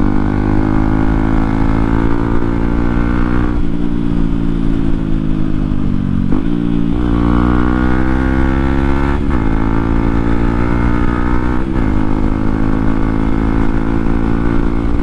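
Motorcycle running through an aftermarket full-system exhaust with its dB killer removed, under way on the road. The exhaust note is loud and steady, and its pitch drifts and shifts abruptly several times as the throttle changes.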